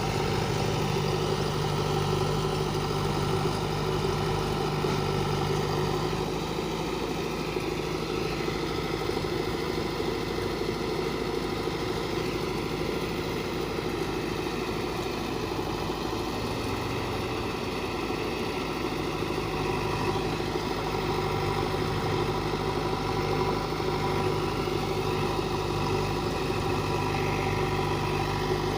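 Diesel engines of a backhoe loader and farm tractors running steadily at low revs, with small shifts in engine speed.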